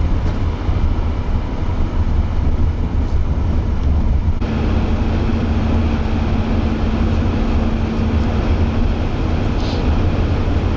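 Road and engine noise inside a moving car's cabin: a steady low rumble with tyre and wind noise. About four seconds in, the noise turns brighter and a steady hum joins it for several seconds.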